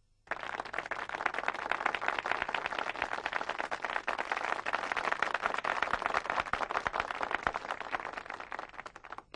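Audience applauding: a dense patter of many hands clapping that starts suddenly and thins out near the end.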